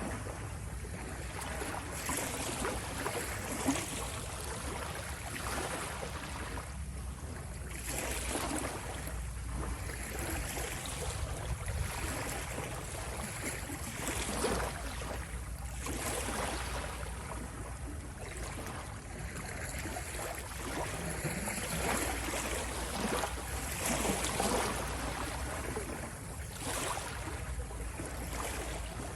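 Water waves washing and splashing in irregular surges every second or two, over a steady low rumble.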